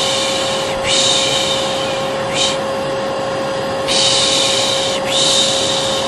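Vacuum cleaner running with a steady hum, overlaid by a repeated 'pşşş pşşş' shushing hiss. Each hiss lasts about a second and they come mostly in pairs: the Turkish 'piş piş' shush used to lull a baby.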